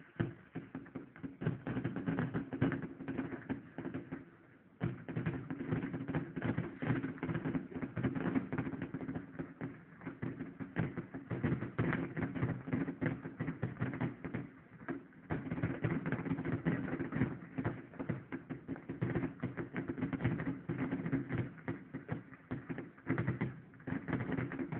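Fireworks display going off in a rapid, continuous barrage of pops and crackles, with brief lulls about four seconds in and again around fifteen seconds.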